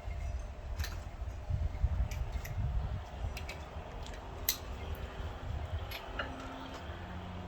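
Hand tools and metal parts clinking and ticking as they are handled, a handful of short, light metallic clicks over a low rumble. A faint steady hum comes in during the second half.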